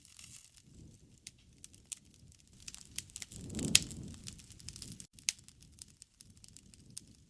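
Wood bonfire crackling, with irregular sharp pops. The loudest pop comes in the middle over a brief low rumble, and another sharp pop follows about a second and a half later.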